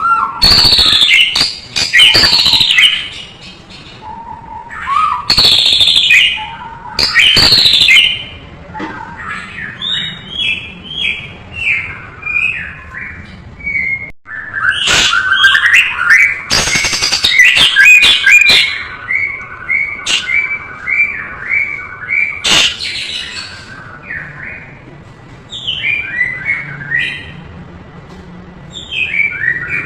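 White-rumped shama singing a long, varied song packed with mimicked phrases. Loud noisy bursts alternate with runs of quick, falling whistled notes.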